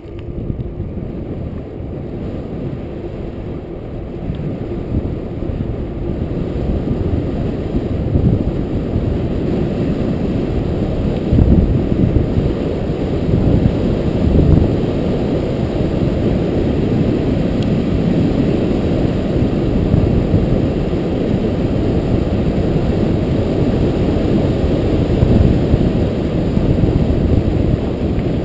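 Wind buffeting the camera's microphone and tyre rumble from a mountain bike rolling along the trail: a steady low rumble that builds over the first dozen seconds as the bike picks up speed, then holds.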